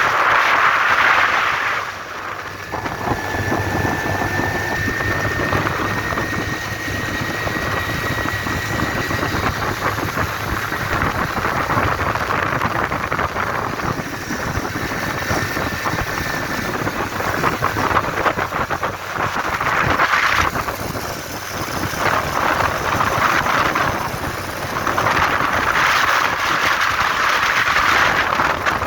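Motorcycle engine running as the bike rides along, under a steady rushing noise that swells louder a few times.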